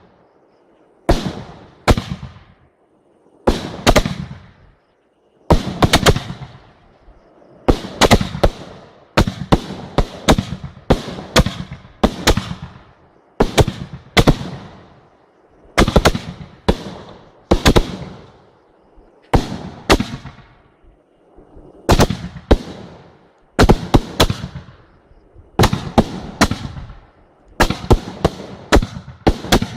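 Aerial fireworks bursting one after another: sharp bangs, often several in quick succession, every second or two, each followed by a fading tail.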